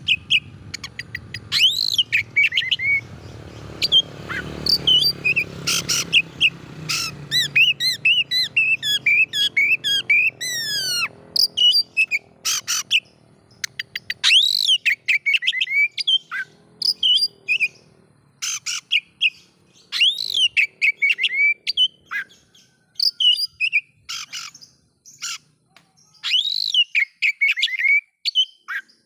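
Oriental magpie-robin (kacer) singing a varied song of loud whistles, chirps and rapid trills in separate phrases with short gaps between them. A faint low hum lies under the first several seconds.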